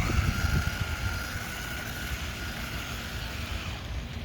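Brushed electric motor of a 1/16-scale SG-1603 RC drift truck, a steady high whine while it runs at speed, fading out about three and a half seconds in.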